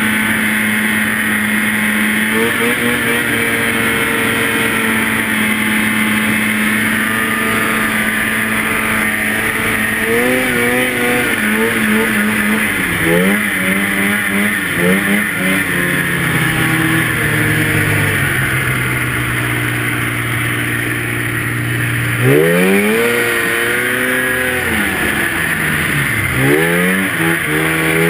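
Two-stroke snowmobile engine running at a steady pitch, then revving up and down again and again as the throttle is worked. It makes deep rises and falls in pitch near the end, over a steady rush of wind and track noise.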